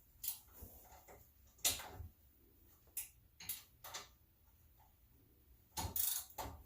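A handful of short metallic clicks and knocks from hand tools being worked on the car's wheel hub, spaced irregularly about half a second to a second apart, with a cluster of louder knocks near the end.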